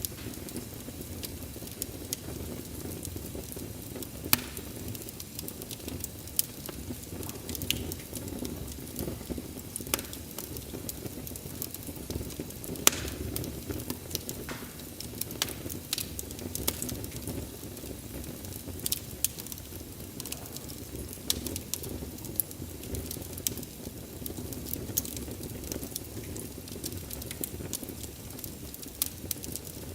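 Wood fire burning with a steady low rumble and irregular crackles, broken by a few sharp pops.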